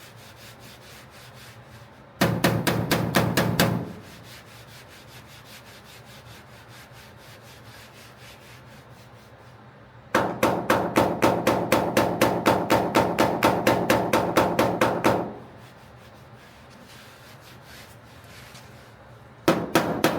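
Rapid hammer taps on the steel fender of a 1969 GTO, knocking down high spots to level the panel. A short run of quick taps, several a second, comes about two seconds in, a longer run from about ten to fifteen seconds in, and another starts near the end.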